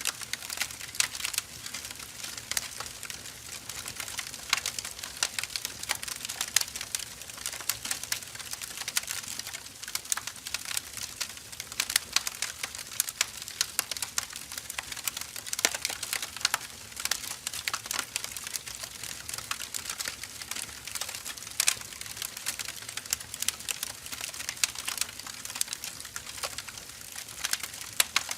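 Firewood burning, crackling with frequent irregular sharp snaps and pops over a steady hiss of the flames.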